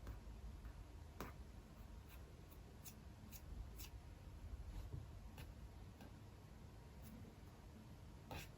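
Faint, sparse clicks of computer keys and mouse at irregular intervals, over a low steady hum.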